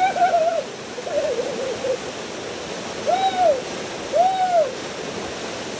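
Waterfall rushing steadily, with a series of four high, arching calls about half a second long each, one wavering, spaced roughly a second apart.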